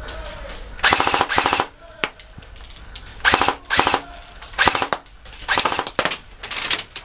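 Airsoft rifle firing full-auto in several short bursts of rapid clicks, each under a second long, with brief pauses between them.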